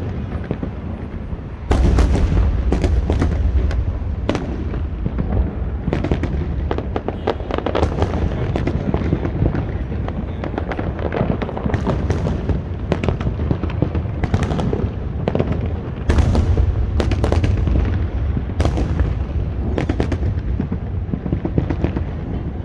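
Large fireworks display: a continuous barrage of shells bursting, with many sharp cracks and bangs over a dense low rumble of booms. The barrage grows heavier about two seconds in and again about sixteen seconds in.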